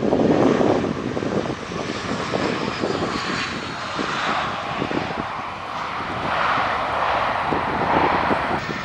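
Airbus A320-family jet airliner passing low on landing: a loud, steady jet engine roar, with a faint high whine that falls in pitch as it goes by.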